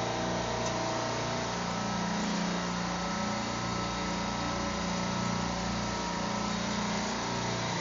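Supermarket refrigeration compressor rack running: a steady machine hum with several constant tones and no change in level.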